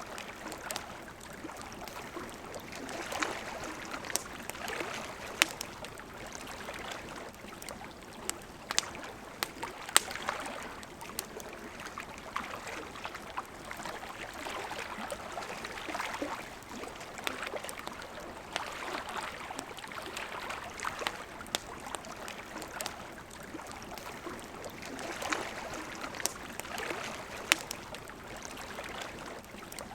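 Wood campfire crackling with scattered sharp pops, over the steady rush of a flowing river.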